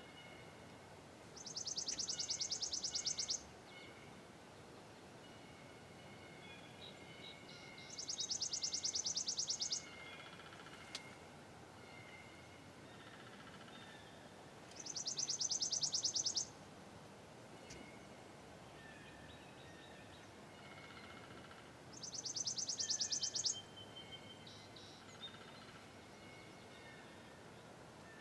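A songbird singing a high, rapid trill of about two seconds, four times at roughly seven-second intervals, with fainter calls of other birds in between.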